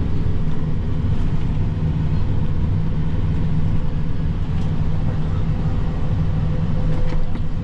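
Tractor engine running steadily under load, a continuous low drone with a few light clicks near the end.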